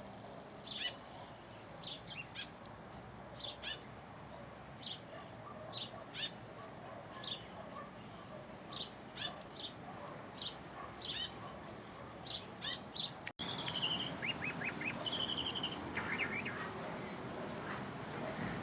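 Songbirds chirping: short, sharp, high calls repeating irregularly, roughly one or two a second. About 13 seconds in the sound cuts abruptly to a louder passage of other bird calls, with a held high note and quick runs of notes.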